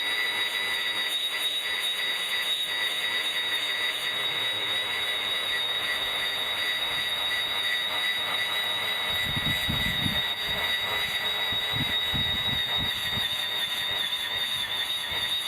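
Electric grass trimmer running with a steady high-pitched whine, a few low rumbles breaking in partway through.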